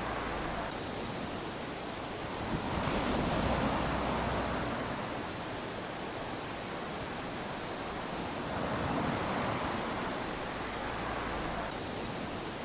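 Small waves lapping onto a sandy shore in an even wash of surf noise, swelling as a wave comes in about three seconds in and again around nine seconds.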